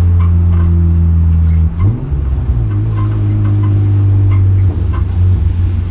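Race car engine droning steadily at low pace, heard from inside the bare cabin. About two seconds in the revs rise briefly and the engine note changes, and it shifts again near the end, with scattered light ticks throughout.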